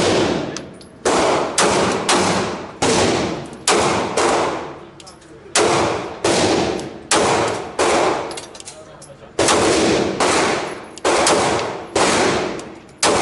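Glock 26 9mm subcompact pistol being fired in a long string of shots, about sixteen in all. Many come in quick pairs or short strings about half a second apart, with brief pauses between them. Each loud crack trails off over about half a second.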